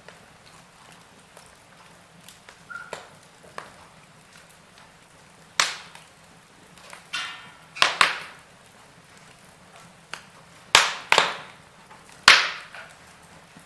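Wood fire burning in a fireplace, crackling with sharp pops every second or two over a low steady hiss, the loudest pops in the second half. There is a short hissing about seven seconds in.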